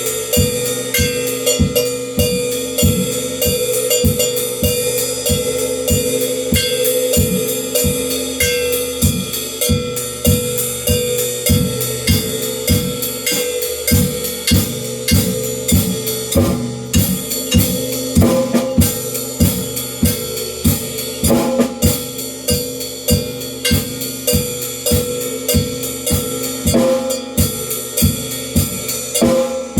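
Drum kit played in a steady, even beat, with drum hits under a continuous wash of cymbals and hi-hat.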